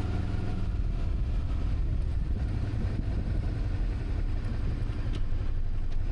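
Steady low rumble of a vehicle on the move, with noisy haze over it.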